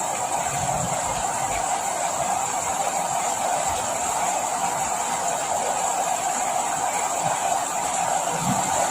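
Steady rain falling: an even, unbroken hiss with no change in strength.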